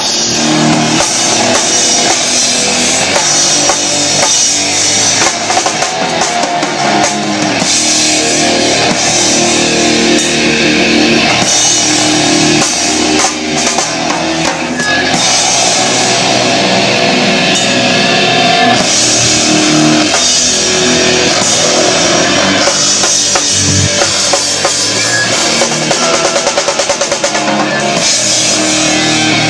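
Rock band playing live, drum kit and electric guitar driving a loud, steady beat.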